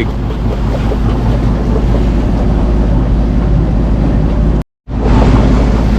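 A sailing yacht's engine running steadily while motoring, a low hum with some water and wind noise over it. It cuts out for a fraction of a second about three-quarters of the way through.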